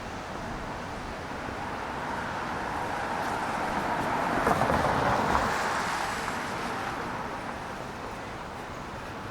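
A vehicle passing on a wet street, its tyre hiss swelling to a peak about five seconds in and then fading away.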